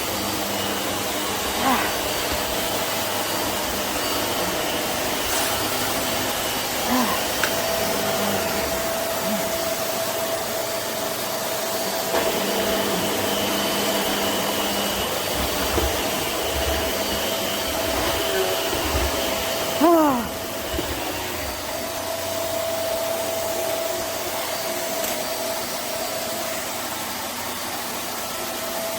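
Upright vacuum cleaner running steadily with a continuous motor whine, and a short sliding squeak about twenty seconds in.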